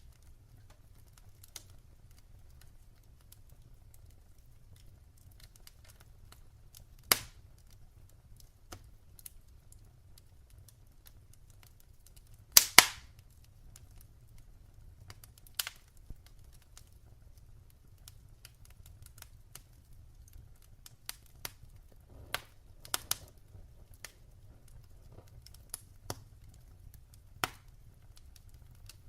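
Wood fire in a fireplace crackling: scattered sharp pops and snaps, the loudest a quick double pop a little under halfway through, with a cluster of smaller snaps later on, over a faint steady low rumble.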